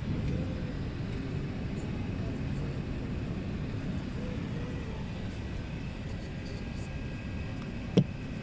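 Steady low rumble of cabin noise aboard an Emirates Airbus A380, with a faint steady whine above it. A single sharp click near the end.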